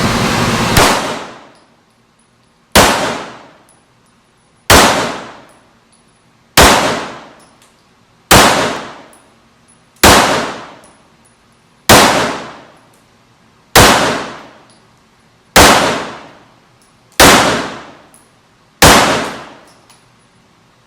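Gunshots fired at a steady pace, about eleven single shots roughly two seconds apart. Each is a sharp crack that rings out for about a second.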